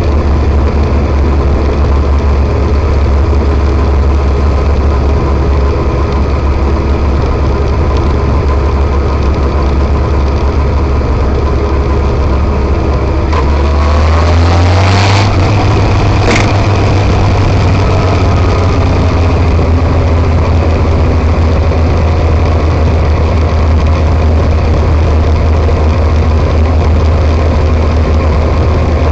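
Motorcycle engine running steadily on the move. About halfway through, its note rises and settles at a higher pitch, with two short sharp clicks as it does.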